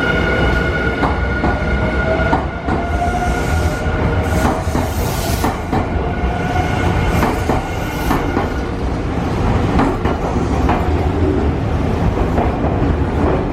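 Nankai electric train running on the station tracks, wheels clacking over rail joints and points in irregular clicks, over a steady rumble. A whine of several steady tones fades out about nine seconds in, while a lower tone slowly rises in pitch.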